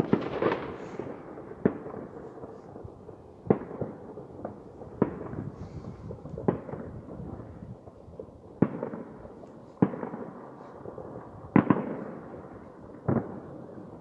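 Fireworks going off, about nine sharp bangs spaced a second and a half to two seconds apart, each trailing off in a rumble, over a continuous background of further bangs and crackle.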